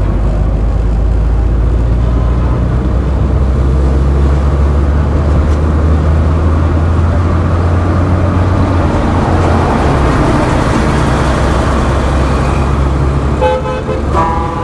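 Road traffic with a heavy, steady low rumble of vehicle engines that eases somewhat partway through. A vehicle horn honks near the end.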